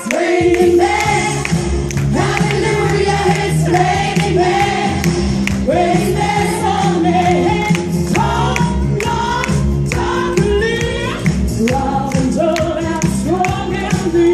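Music: a choir singing a gospel-style song over a band with a steady beat.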